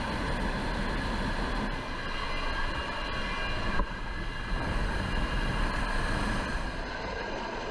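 Coast Guard helicopter running steadily during a hoist exercise: a continuous deep rumble and rush with a faint high turbine whine.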